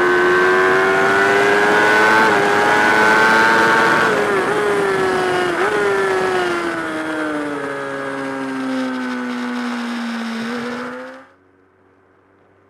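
Racing motorcycle engine at high revs, heard onboard with wind rush. The pitch climbs slowly, then drops with two short blips as the rider shifts down, and falls steadily as the bike slows. It cuts off suddenly near the end.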